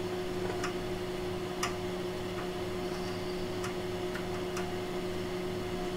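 Steady electrical hum from running bench test equipment, with faint, evenly spaced ticks about once a second.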